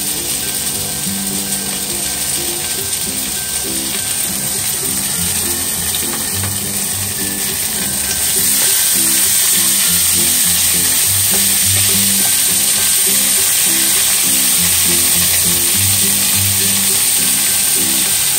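Mixed vegetables (corn, peas and diced carrot) sizzling in hot oil in a nonstick frying pan as they are stir-fried with a spatula. The sizzle gets louder about eight seconds in, with soft background music underneath.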